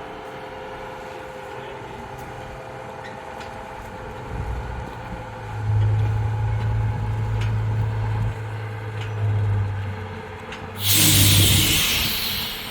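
Diesel locomotive machinery: a low steady drone comes up about four seconds in and holds, then a sharp hiss of compressed air sounds briefly near the end.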